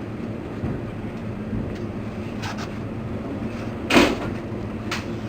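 Steady low rumble of a 583 series electric train car heard from inside the cabin. A single sharp knock comes about four seconds in, and a couple of faint clicks are heard around it.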